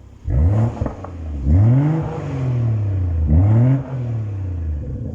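BMW turbocharged straight-six revved three times in Eco Pro mode through a custom de-cat exhaust with 3.5-inch oval pipework: a short blip, then two longer revs, each rising quickly and falling slowly back to idle.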